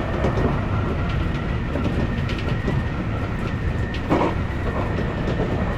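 Odakyu electric train running along the track: a steady rumble of wheels on rail with light clicks, and a faint steady high tone. A brief louder noise comes about four seconds in.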